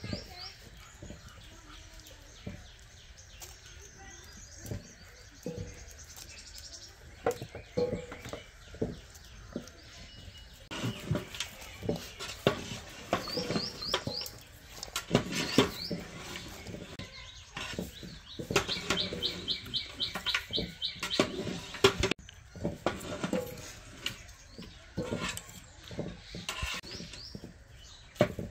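Birds chirping in short, quick runs of high notes several times, over irregular knocks and clicks from handling cooking utensils and ingredients.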